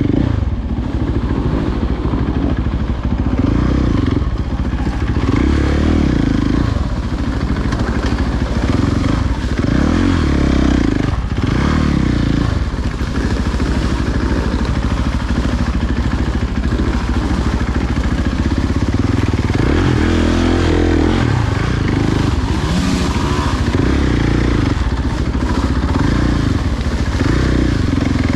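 Dirt bike engine under way, its pitch rising and falling again and again as the throttle is opened and closed and the gears are shifted.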